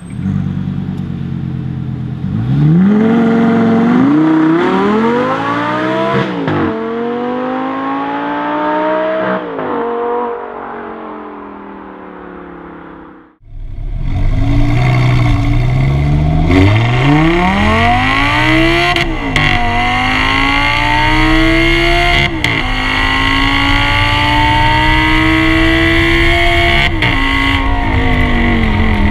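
Audi R8 V10 engine accelerating hard, revs climbing and dropping at each upshift as the car pulls away and fades into the distance. After a sudden cut, the same V10 is heard close at its exhaust tip at speed, climbing through several more upshifts over a steady rush of wind noise.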